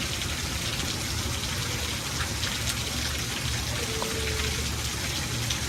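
Steady rainfall with individual drops pattering, over a low rumble.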